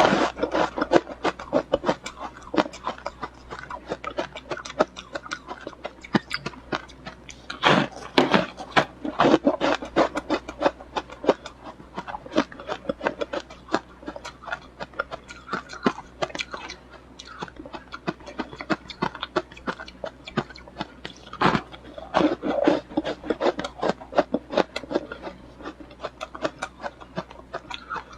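Ice being bitten and chewed close to the microphone: dense, irregular crunching and cracking, with a few louder bites now and then.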